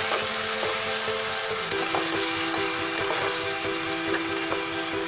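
Potatoes, capsicum and onion in a spiced yogurt masala sizzling in oil in a nonstick frying pan as a spatula stirs them, with a few light scrapes and taps of the spatula against the pan.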